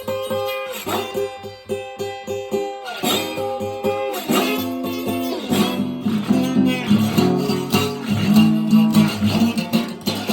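Blues guitar playing an instrumental passage: a quick repeated picked figure, then fuller, louder chords from about halfway through.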